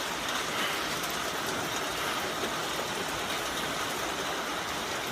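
Heavy rain pouring down steadily, an even hiss of drops hitting the ground and surfaces, with no thunder.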